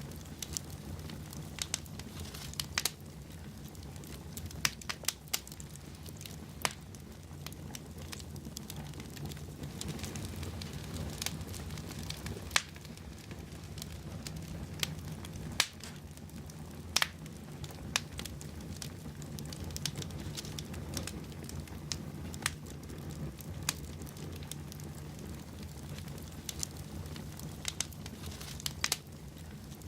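Wood fire burning in a fireplace: a steady low rush of flames with irregular sharp crackles and pops from the logs.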